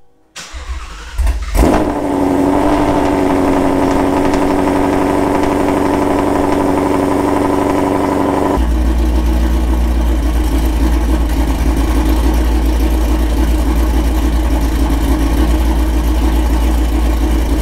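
Car engine cranked and catching about a second in, then settling into a steady idle. Partway through, the sound switches abruptly to the same engine idling with a deeper, heavier tone, heard from inside the cabin.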